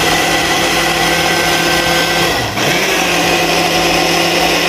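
Glass countertop blender running, crushing ice for a frozen rum smoothie. The motor drops out briefly about halfway through and comes straight back up at a slightly higher pitch, a short blend-and-stop pulse.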